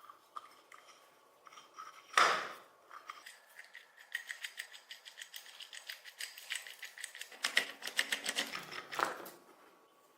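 A single knock about two seconds in, then a fast run of small sharp metallic clicks and scrapes, several a second, from hand tools working on metal parts.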